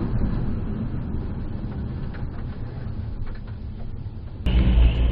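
Low rumble of a heavy vehicle's engine with a few faint ticks, cutting abruptly to a louder low rumble about four and a half seconds in.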